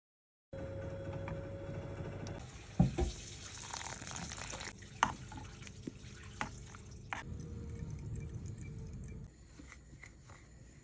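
Kitchen sounds: a steady watery hiss of liquid running or cooking, with a few sharp knocks of utensils, the loudest about three seconds in. The hiss starts suddenly and quietens near the end.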